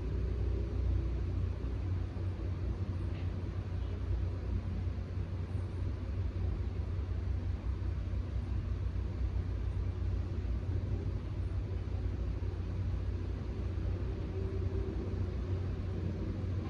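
Steady low rumble with a faint hiss of background noise, with no distinct events.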